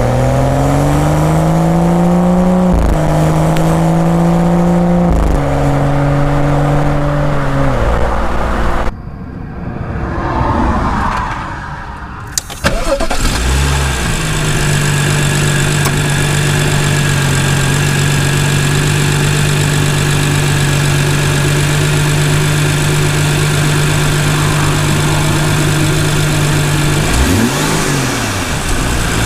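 BMW M235i's turbocharged straight-six exhaust accelerating through the gears, its pitch climbing and dropping back at each of several upshifts. After a quieter few seconds and a sharp click, the engine runs at a steady idle.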